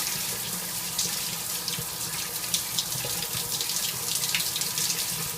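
Shower water running steadily: a hissing spray with small, irregular splashes.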